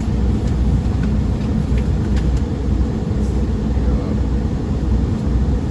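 Big-rig truck's diesel engine idling while the truck is parked, heard from inside the cab as a steady low rumble, with a few faint clicks of small handling noises.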